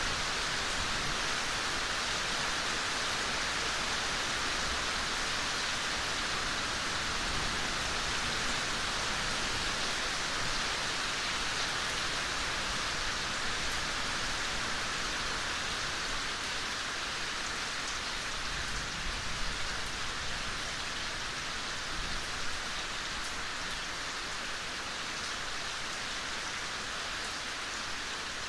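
Steady rain falling in a forest, an even hiss of drops on leaves and ground, with a few slightly louder drop patters near the end.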